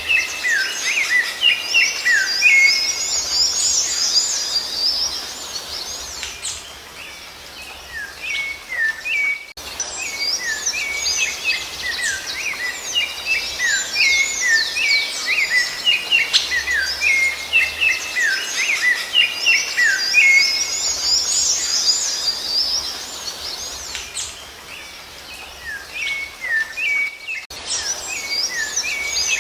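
A dense chorus of songbirds, many rapid high chirps and short gliding notes overlapping. The chorus thins out twice for a few seconds, then starts up again abruptly.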